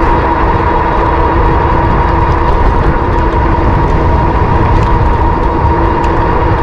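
Wind rushing over an action camera's microphone on a moving electric bike, a loud, steady low rumble, with a steady whine running through it from the bike's electric motor.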